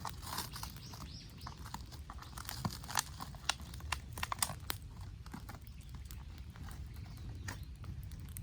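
Campfire crackling: burning wood giving irregular sharp pops and snaps, over a steady low rumble.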